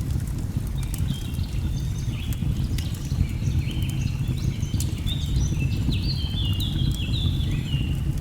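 Nature-sound ambience: a steady low rush of falling water with scattered sharp crackles of a wood fire. From about a second in, a bird sings a run of short whistled notes that step up and down in pitch.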